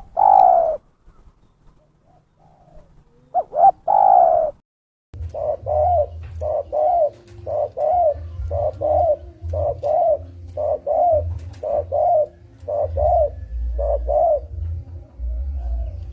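Spotted dove cooing: a long falling coo at the start and another about four seconds in, then a steady run of short repeated coos about two a second, played as a lure call. A low rumble runs under the later coos.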